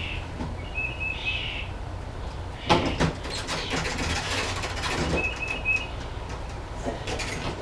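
Plastic grille and bumper parts on a car front end being handled and fitted, with a sharp knock about two and a half seconds in followed by a couple of seconds of clattering and rustling. Birds chirp briefly twice in the background.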